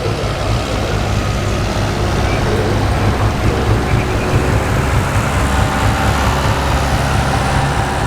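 Diesel pickup truck engine running hard under load, a loud, steady drone that swells slightly a couple of seconds in.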